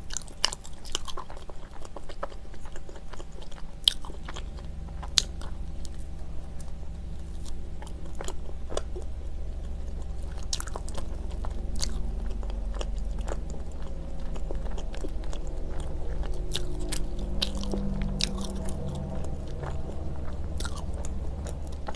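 A person chewing a bite of cheese-filled bread, with scattered sharp mouth clicks throughout.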